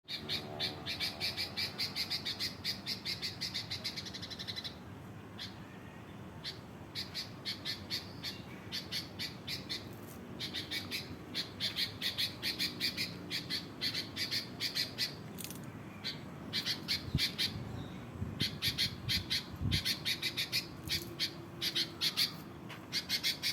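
Sooty-headed bulbul (kutilang) calling in fast runs of sharp, evenly repeated chattering notes: one long run over the first four and a half seconds, then shorter bursts with brief gaps. This excited calling is what bird keepers call 'birahi', the sound of a bulbul in breeding condition.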